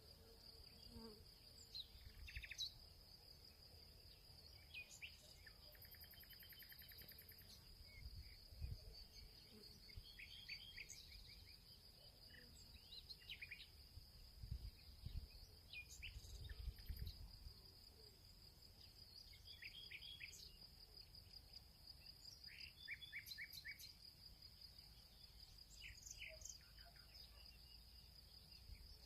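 Field ambience: a continuous high-pitched insect trill, crickets, with scattered short bird chirps and calls over it. A few low rumbles come and go around the middle.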